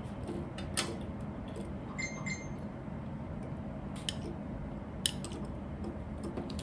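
Plastic Lego pieces being handled, with a few sharp clicks and light rattles over a steady low hum. Two short high chirps sound about two seconds in.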